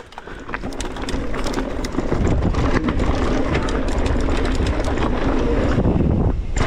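Wind rushing over an action camera's microphone, with the rattle of an e-mountain bike's tyres and frame over a dirt trail, building over the first two seconds as the bike gathers speed downhill. The noise drops off briefly near the end.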